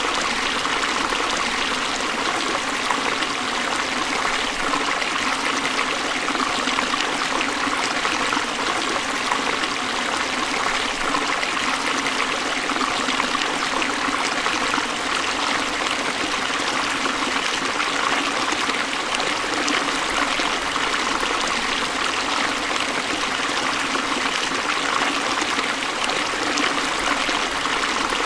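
Forest stream flowing steadily over rocks, a continuous even rush of water with small splashes and trickles.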